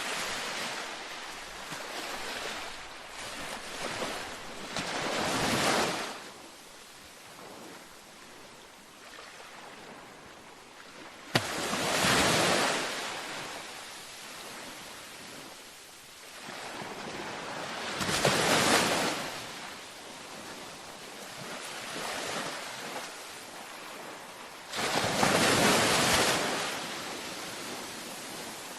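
Ocean waves breaking on a beach. A surge of surf comes every six or seven seconds, with a quieter wash between. The wave about eleven seconds in starts with a sharp crack.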